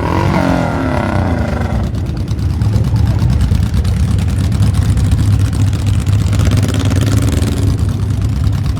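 Motorcycle engines running together through loud exhaust pipes, a steady deep rumble. A voice is heard over it in the first two seconds.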